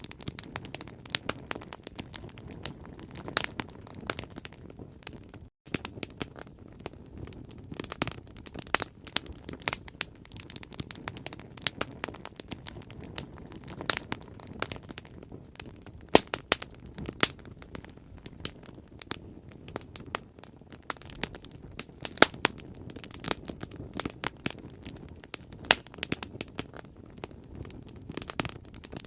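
Bonfire burning: irregular sharp crackles and pops of burning wood over a steady low rumble of flames.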